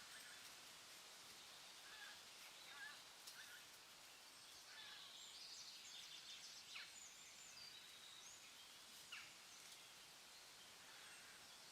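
Near silence: faint outdoor ambience with a few soft, scattered bird-like chirps.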